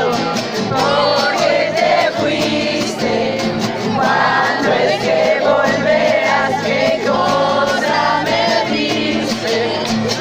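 A group of people singing a song together, many voices at once.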